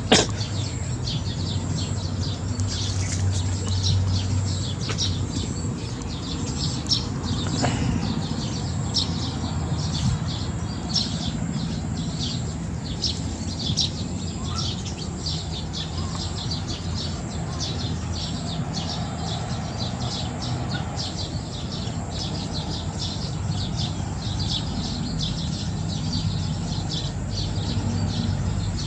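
Small birds chirping over and over in short high notes, over a steady low rumble.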